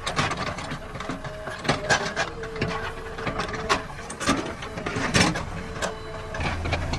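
JCB backhoe loader working: diesel engine running under a whining hydraulic tone that comes and goes several times, with many irregular metallic clanks and knocks.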